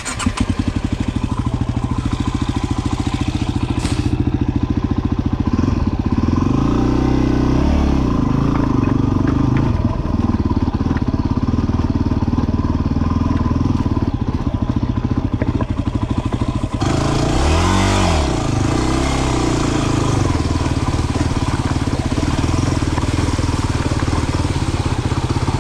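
A 250 cc single-cylinder dual-sport motorcycle engine running under way on a trail. The revs rise and fall around a third of the way in and again past the middle.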